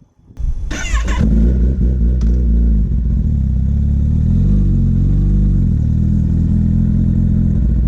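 2019 Kawasaki ZX-10R's inline-four engine, fitted with an aftermarket Austin Racing exhaust, starts up about half a second in and then runs loud. Its pitch rises and falls a few times.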